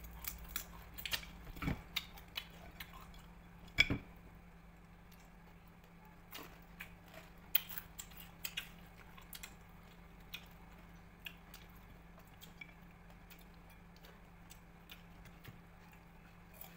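Crunching and chewing of crispy chicharon baka (deep-fried beef skin): sharp cracks and crackles as pieces are broken and bitten. They come thick at first, with one loud crack about four seconds in, then come only now and then.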